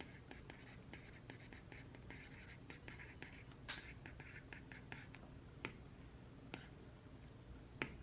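Faint writing on paper: quick scratchy strokes for the first few seconds, then a few separate sharp ticks spaced further apart, the loudest near the end.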